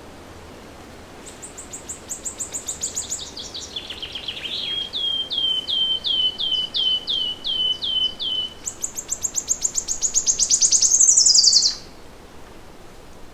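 A songbird singing one long, varied song: a fast series of high notes, then slower, evenly repeated notes lower in pitch, then a quick trill that climbs to a high finish and stops sharply. A faint steady hiss of forest ambience lies underneath.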